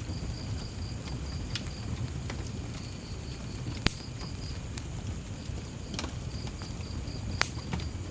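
Wood fire burning with a low rumble and scattered crackles, with two sharp loud pops about three and a half seconds apart. Crickets chirp throughout in a high, even pulsing trill that comes in short runs.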